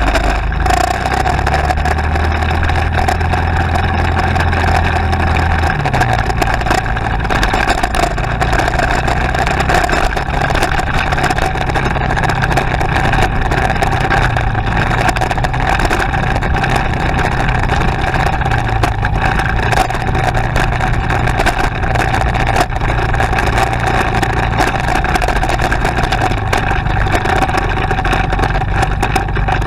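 Motorcycle engine running steadily while riding, with its low note stepping up in pitch about six seconds in.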